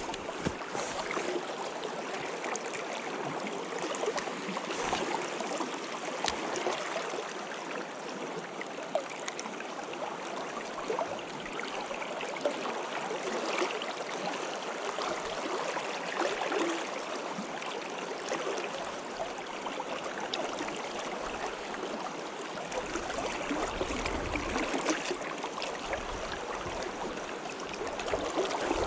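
Stream water running steadily, an even wash of sound with small scattered splashes and trickles.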